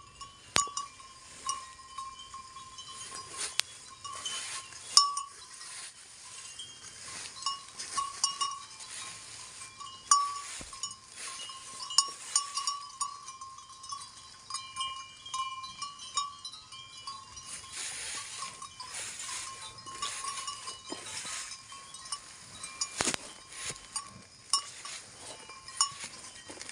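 Livestock held in a pen for sale: irregular knocks and clanks over a steady high-pitched tone, with no clear calls from the animals.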